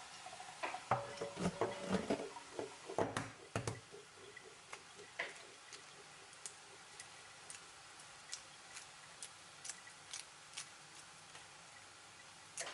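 Kitchen work sounds: a quick cluster of knocks and clinks, then light, evenly spaced ticks about twice a second.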